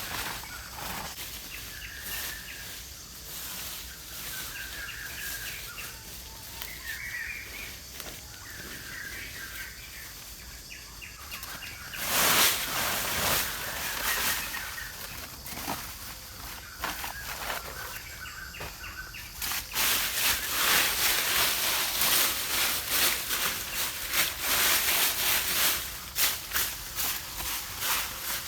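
Small birds chirping over a quiet forest background, broken about halfway by a brief loud rustle, then a long stretch of dense rustling and crackling of dry leaves and twigs in the last third.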